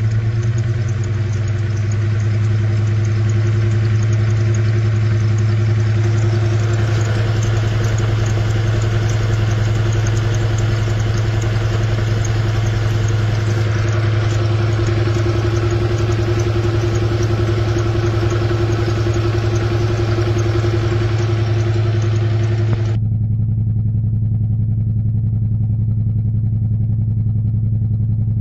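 BMW car engine running at a steady idle with a low, even hum. Near the end the sound abruptly turns muffled, leaving only the low hum.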